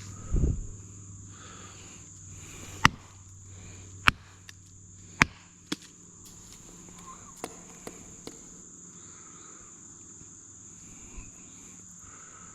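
A wooden stick struck against a tree trunk: three loud, sharp knocks a little over a second apart, followed by several fainter, scattered knocks, over a steady high-pitched buzz of insects. A low thump comes just before the first knock.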